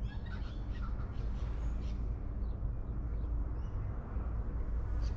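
Birds calling with scattered short chirps over a steady low background rumble.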